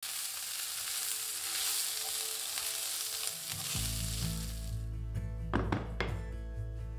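Chicken and potato strips sizzling in a frying pan as they are stirred with a spatula; the sizzling stops about five seconds in. Background music with a low held bass comes in just before, and a few brief scrapes follow near the end.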